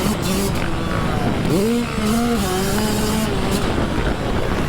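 Dirt bike engine revving up and easing off while riding, its pitch rising sharply about one and a half seconds in, holding, then dropping, over a rough rumble of wind and engine noise.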